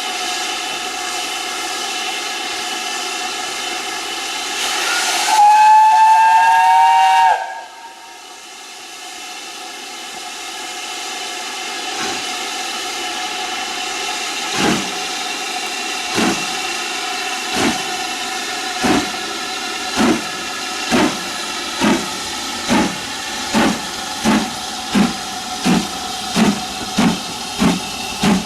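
Steam locomotive hissing with steam, then sounding its whistle, a loud steady note for about two seconds. It then starts away, the exhaust beats coming slowly at first and quickening steadily as it gathers speed.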